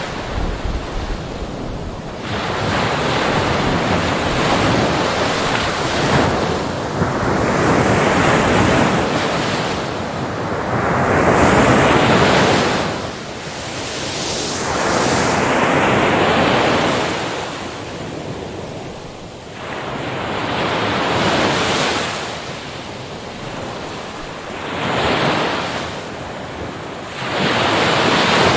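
Ocean waves breaking on a beach, the surf swelling and falling back every few seconds as each wave comes in.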